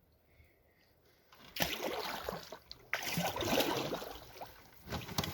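Canoe paddle strokes and water splashing and sloshing around the hull, starting suddenly about a second and a half in and going on in uneven surges.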